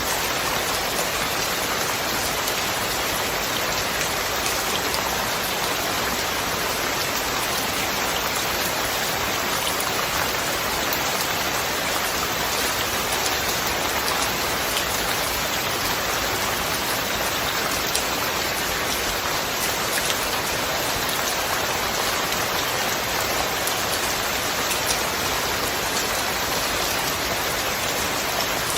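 Steady rain falling, an even hiss of countless drops with faint individual drop ticks scattered through it.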